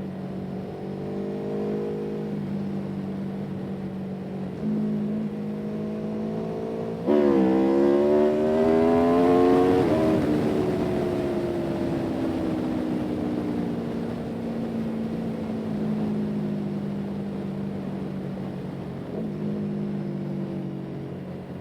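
Motor vehicle engine running steadily, then revving up sharply about seven seconds in, its pitch climbing for about three seconds before it eases off and the pitch slowly falls back.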